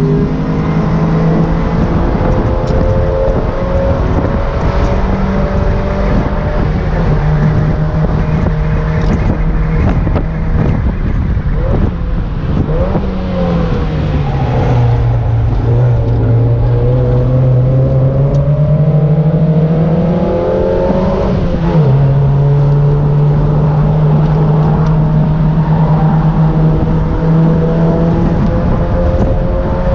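Mazda MX-5 NA's 1.6-litre four-cylinder engine, fitted with a BBK cat-back exhaust, pulling on track. The revs fall through the middle as the car slows for a corner, then climb again, with one upshift about 22 seconds in. Wind rushes through the open cockpit underneath.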